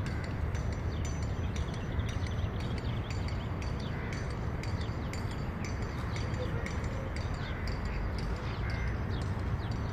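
Many birds chirping in quick, repeated short notes, with a few louder, harsher calls about four and nine seconds in, over a steady low rumble.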